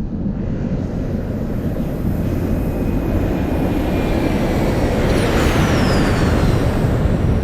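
A low, engine-like rumble sound effect, like a passing aircraft or spacecraft, slowly growing louder, with a thin high whistle gliding downward about five seconds in.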